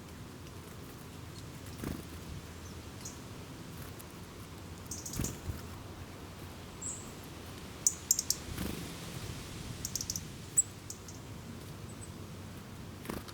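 Small birds giving short, high chirps in scattered clusters, with a few soft low thuds or rustles in between.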